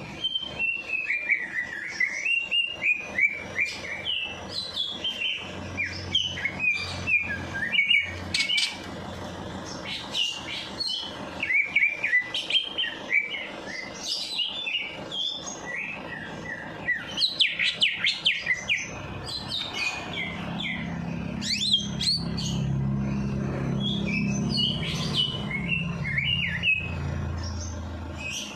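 Songbird singing a rapid, varied song of chirps and trills without pause, in full voice. A steady low hum is heard underneath in the second half.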